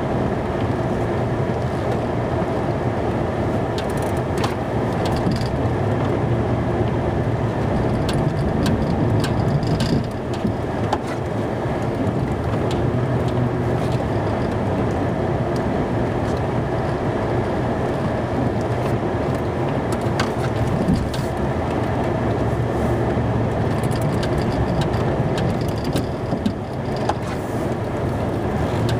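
Snow-plow truck's engine running steadily while plowing snow, with scattered short knocks and clicks.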